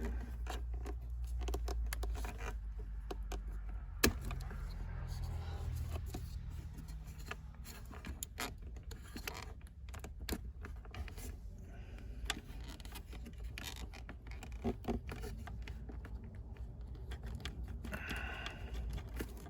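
Hands working plastic dashboard trim and wiring-harness connectors: scattered small clicks, rattles and scrapes, with one sharp click about four seconds in. A steady low hum underlies the first several seconds.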